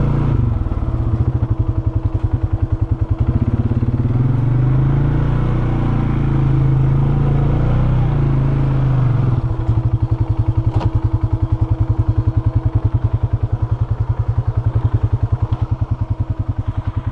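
Polaris Sportsman 570 ATV's single-cylinder engine running with its speed shifting, then settling into a steady, evenly pulsing idle about nine or ten seconds in.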